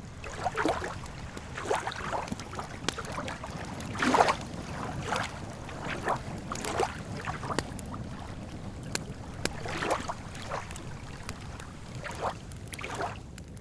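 Small lake waves lapping against the shore in irregular splashes about once a second, with a few light crackles from a campfire.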